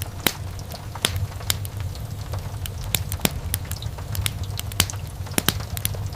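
Wood fire crackling in a fireplace, with irregular sharp pops and snaps over a steady low rumble of burning.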